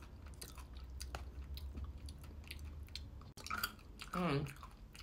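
Close-up chewing of chocolate mousse and candy-shelled Cadbury Mini Eggs: a string of short, sharp crunches of the sugar shells. Around three and a half seconds in comes a loud, drawn-out vocal "mmm" of enjoyment that falls in pitch.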